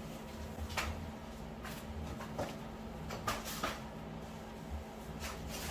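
A few light, scattered clicks and knocks of metal tools and parts being handled and fitted, over a steady low hum.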